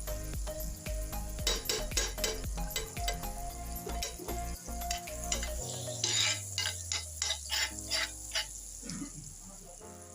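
Food frying in a pan while a spatula or spoon stirs and scrapes against it, with a fast run of scraping strokes, about four a second, in the second half. Background music plays underneath.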